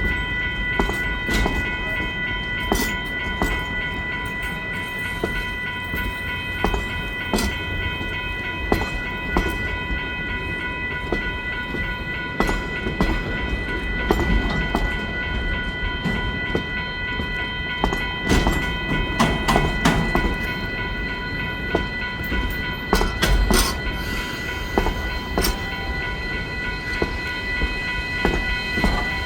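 Durango & Silverton No. 493 steam locomotive backing its train of narrow-gauge cars slowly: rolling rumble with irregular clanks and knocks from wheels and couplers, and a steady high-pitched whine. The knocking is busiest about two thirds of the way through.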